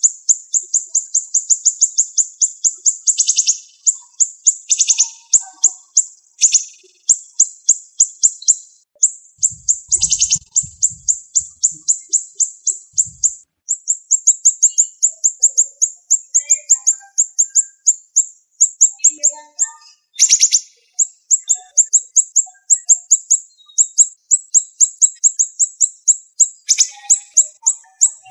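Siri-siri bird song: a fast, tightly packed run of sharp, high chirps, many notes a second, broken by brief pauses and a few harsher, louder bursts.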